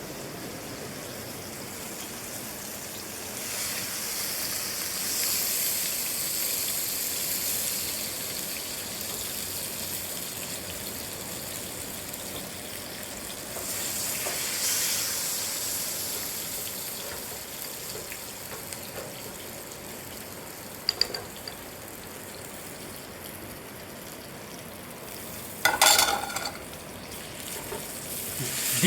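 Wagyu beef filets sizzling steadily in a hot pan of oil and roasted garlic butter. The sizzle swells twice for a few seconds as the steaks are worked in the butter. There is a short knock near the end.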